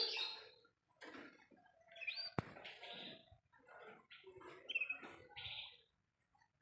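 Young canary twittering in short, irregular chirps and raspy notes: the soft, broken early song of an untrained bird just beginning to sing. One sharp click comes about two and a half seconds in.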